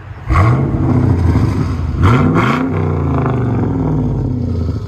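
Pontiac Firebird's LS1 5.7-litre V8 through a straight-piped dual exhaust with its mufflers removed, running loud. It comes in suddenly just after the start and revs up and back down again about two seconds in, then holds a steady throaty run until it eases off at the end.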